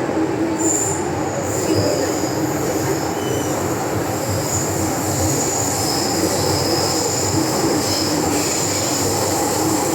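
MTR M-Train metro car running, heard from inside the car: a steady rumble of wheels on rail with thin, high wheel squeal rising and fading over it.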